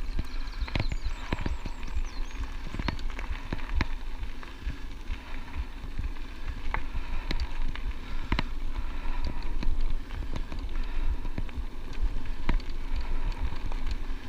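Bicycle tyres rolling over a gravel track, with stones crackling and ticking under the wheels and the bike rattling now and then, over a steady low rumble of wind on the microphone.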